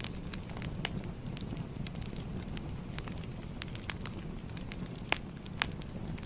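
Wood fire burning, with a steady low rumble of flames and irregular crackles and pops; the loudest pops come about four seconds in and about five seconds in.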